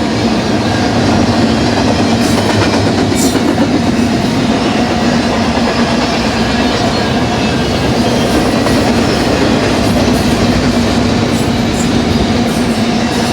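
BNSF double-stack container train rolling past at speed: a steady, loud rumble of steel wheels on rail with a constant hum and scattered clicks from the wheels and cars.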